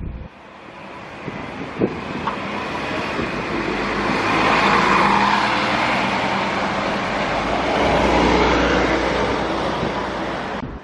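A vehicle passing close by, its noise swelling about four seconds in and again near eight seconds, with a low hum underneath.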